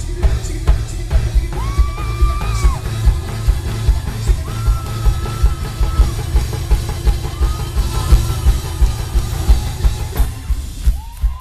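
Live band playing an up-tempo song, with the drum kit keeping a steady beat of about two hits a second. Long, held high notes ring out over the beat several times.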